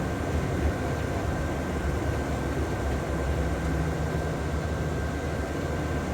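A steady low rumble with a faint constant high tone running through it.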